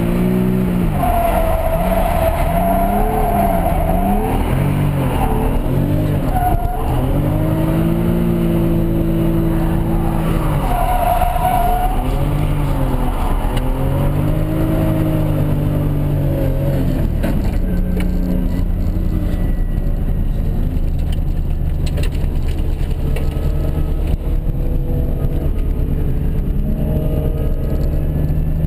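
Toyota Mark II's turbocharged 1JZ straight-six heard from inside the cabin, revving up and down over and over through a drift, with tyre squeal at times. After about seventeen seconds the engine settles to a steadier, lower note.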